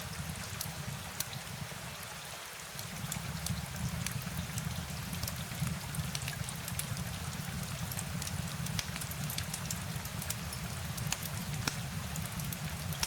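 Steady rain falling, a dense hiss with many sharp, scattered drop ticks over a low, even rumble; it eases briefly about two seconds in, then fills back in.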